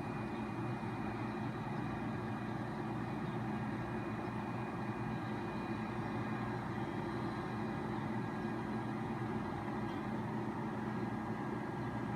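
Heavy truck engine running steadily, a low, even hum that does not rise or fall, from the flatbed truck carrying a telescopic crane.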